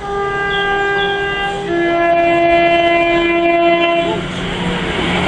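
A train passing at speed sounds one long warning blast, a steady tone that drops to a lower pitch about a third of the way through and cuts off near the end. The rushing noise of the passing train grows under and after it.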